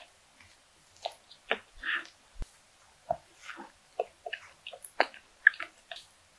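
Close-miked biting and chewing of a soft bun filled with whipped cream and red bean paste: irregular wet squishes, smacks and small mouth clicks.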